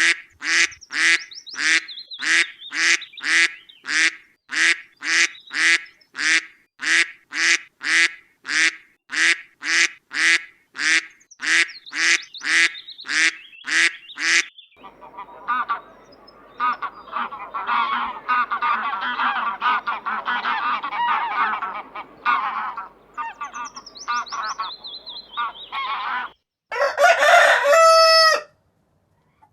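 Domestic ducks and geese calling: first a long run of evenly spaced calls, about two a second, then a jumbled chatter of many calls at once. Near the end a cockerel begins to crow.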